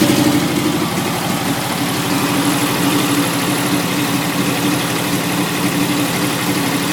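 1967 Porsche 912's air-cooled flat-four engine idling steadily, settling to a slightly quieter idle about a second in.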